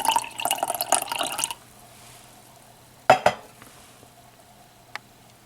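A can of Mr. Brown iced coffee being shaken, the liquid sloshing in quick rattles for about a second and a half. Two sharp clicks follow close together about three seconds in.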